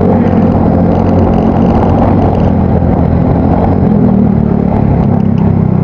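Yamaha Mio Soul GT scooter's single-cylinder four-stroke engine with an aftermarket exhaust, running steadily while riding at a fairly constant speed, its exhaust note loud and deep.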